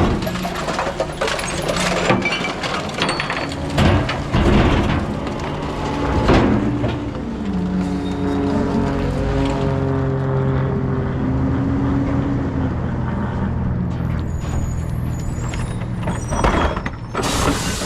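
Rear-loader recycling truck's diesel engine running, its pitch rising and falling for several seconds in the middle, with clanks and clattering near the start and again near the end.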